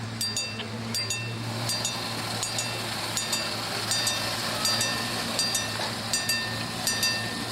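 Miniature railway train running on the track: wheels click over rail joints about two or three times a second, often in pairs, each click with a ringing metallic tone. A steady low hum runs underneath.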